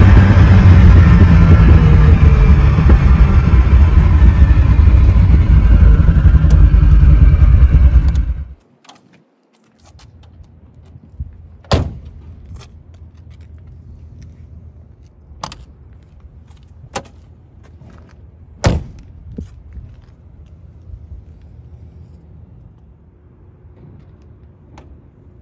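A 1970 Ferrari Dino 246 GT's mid-mounted 2.4-litre V6 running under way, heard from inside the cabin. After about eight seconds it cuts off suddenly, leaving a low background with a few scattered knocks and clicks.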